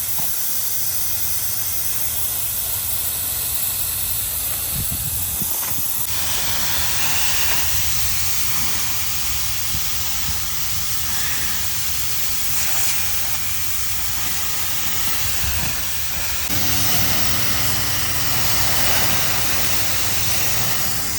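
Steady loud hiss of pressurised gas rushing out. About three quarters of the way through, a low steady hum joins it.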